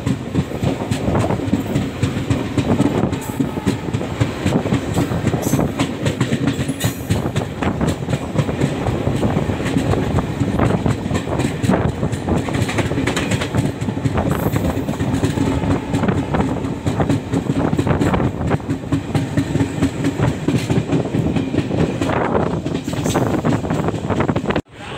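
Indian Railways passenger coach running at speed, heard from on board: a dense rumble of wheels on rail with rapid, uneven clickety-clack over rail joints. The sound cuts off abruptly just before the end.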